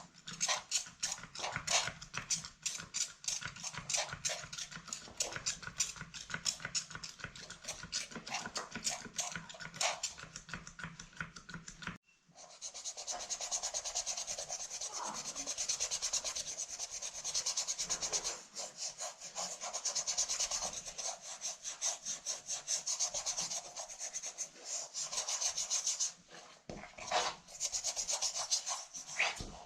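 Repeated rapid scrubbing strokes on a handbag during cleaning, in quick, even rubs. About twelve seconds in there is a brief break, after which the scrubbing is faster and hissier.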